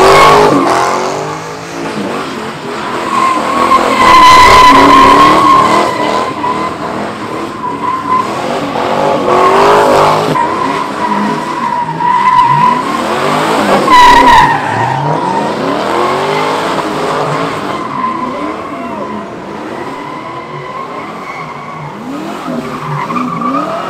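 Cars doing donuts and burnouts: a steady, high tire squeal over engines revving up and down, loudest about four to five, ten and fourteen seconds in.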